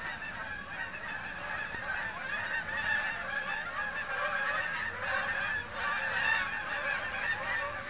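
A flock of geese flying overhead, many birds honking at once in a dense, continuous chorus.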